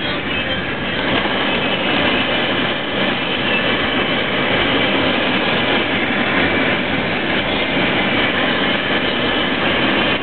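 Steady, loud noise of a car driving through a heavy downpour: rain and water on the road mixed with road rumble, heard from inside the car.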